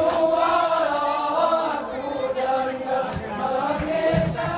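Saman dancers' group chant: a row of men's voices singing in unison at a high pitch, with a few sharp body-percussion hits about three to four seconds in.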